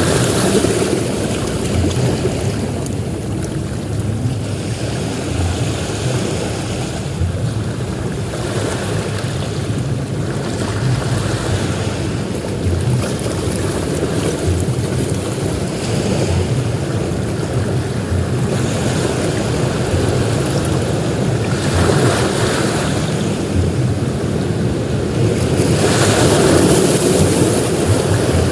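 Ocean surf breaking on a beach, a continuous wash of waves that swells and eases, with heavier breakers near the start and in the last few seconds.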